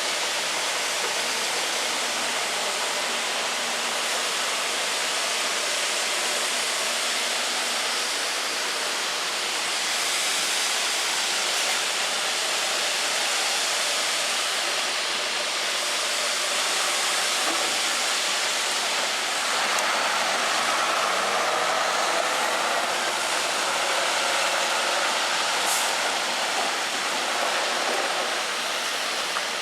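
Steady rushing noise of peanut mill machinery, with no distinct engine note, swelling slightly about two-thirds of the way through.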